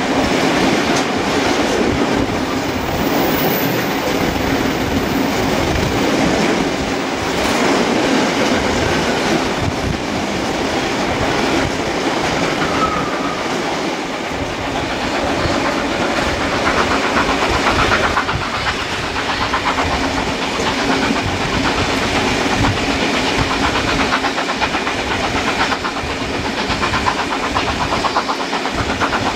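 Passenger train carriage running at speed, its wheels going clickety-clack over the rail joints with a steady rush of running and wind noise, heard at an open carriage window.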